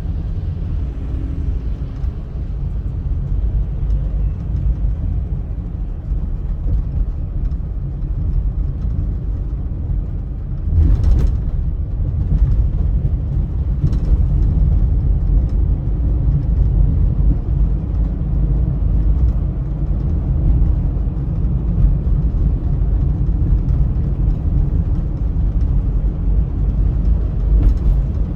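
Car driving on a highway: a steady low rumble of road and engine noise. About eleven seconds in there is a brief sharp whoosh or knock, after which the rumble is slightly louder.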